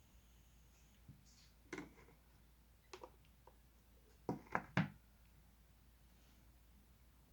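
Slime being handled: a few short, sticky pops and clicks, with the loudest three in quick succession about four and a half seconds in.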